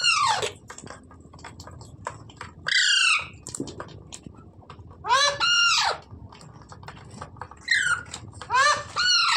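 A rose-ringed parakeet (Indian green parrot) giving a series of loud, harsh squawks a second or two apart, each call arching up and then down in pitch.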